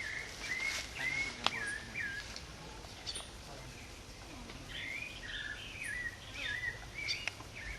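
A bird singing a series of short, clear whistled notes in two bouts, with a pause of a couple of seconds between them.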